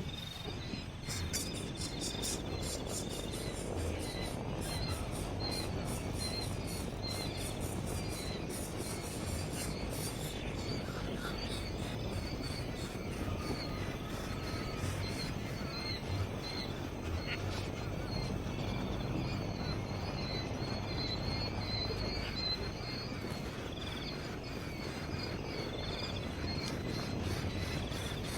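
Outdoor nature ambience: insects chirping steadily with short, high bird chirps over a steady low rumble, and a run of rapid high ticking in the first ten seconds or so.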